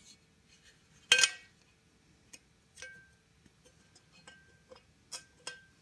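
Small steel parts and tools handled on a metal workbench: one sharp clank about a second in, then a string of light metallic ticks and clinks, a few with a brief ring.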